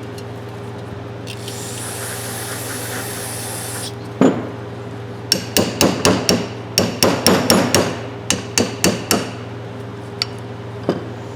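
An aerosol spray hisses for about two and a half seconds. Then a hammer taps on a rust-seized adjustable wrench in a quick run of sharp knocks, about three a second, with a few more near the end, knocking the rust loose.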